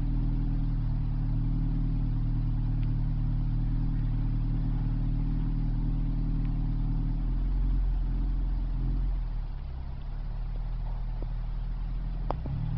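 Honda Accord engine idling through an exhaust with the catalytic converter deleted, an aftermarket B-pipe and an HFP muffler, giving a steady low drone. The level drops slightly about nine seconds in.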